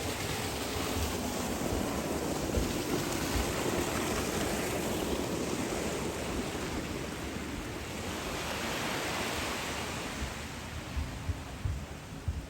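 Sea waves washing onto a beach, swelling and falling back twice, with wind thumping on the microphone near the end.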